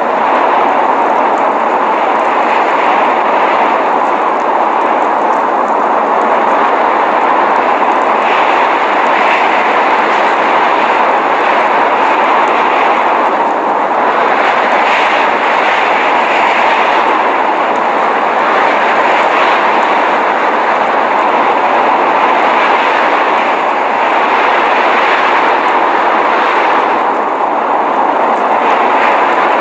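Steady roar of blizzard wind, a continuous rushing noise that swells and eases slightly now and then.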